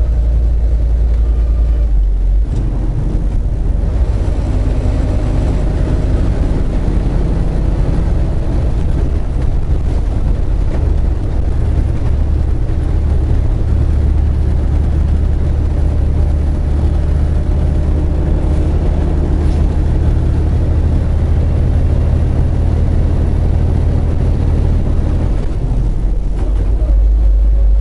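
Semi truck's diesel engine and road noise heard from inside the cab while driving: a loud, steady low rumble.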